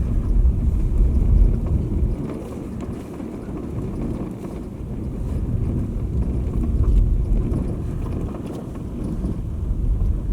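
Low, steady rumble of a car on the move, with wind buffeting the microphone.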